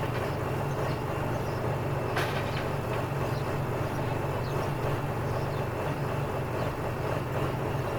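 A vehicle engine idling steadily with a low, even drone, with a single short click about two seconds in.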